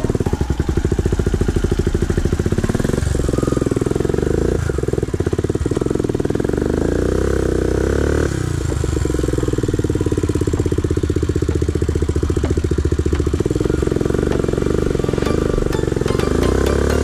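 Motorcycle engine running loud and steady under load, its note shifting about eight seconds in.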